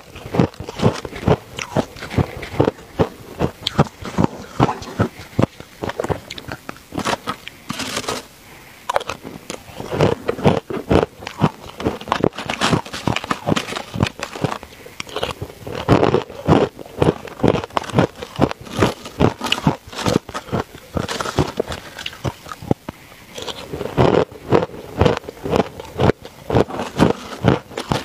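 A person biting and chewing ice, with a steady run of sharp crunches, several to the second.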